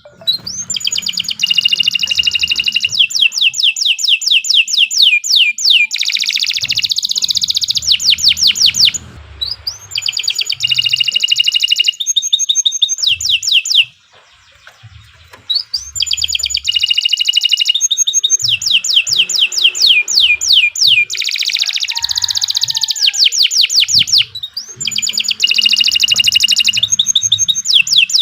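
Canary singing long, continuous song phrases made of fast rolling trills of repeated sweeping high notes, broken by brief pauses a few times.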